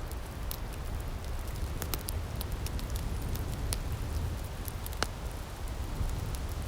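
Wood fire in an outdoor firepit crackling, with frequent irregular sharp pops over a low steady rumble.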